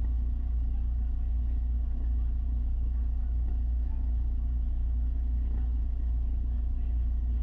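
A steady low mechanical hum that holds an even level and pitch throughout, with no sharp events.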